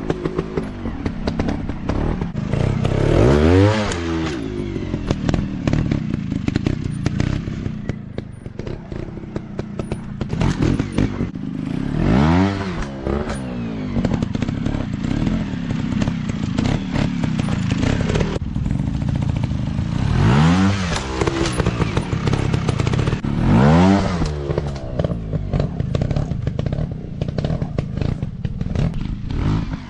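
Dirt bike engines revved in short bursts several times, each climbing in pitch and dropping back, over steady running between, with clattering and knocks throughout.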